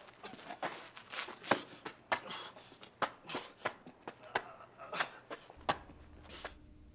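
A string of sharp, irregular clicks and knocks with faint rustling, about one or two a second, and a low hum coming in near the end.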